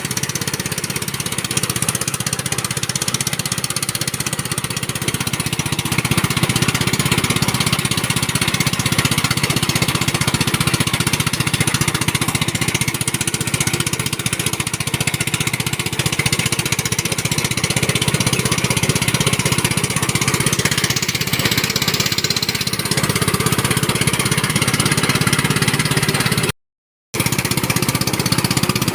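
Engine of rice-harvesting machinery running steadily at a constant speed, with a half-second break near the end.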